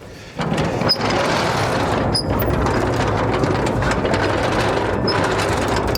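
A machine starts up sharply about half a second in and then runs steadily and loudly, a mechanical engine-like noise with a rattling edge.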